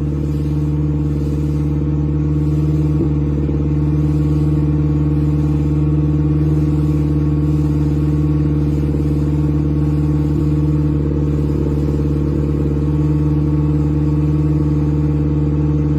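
Boat engine running steadily at constant speed, a loud even hum with a fixed pitch.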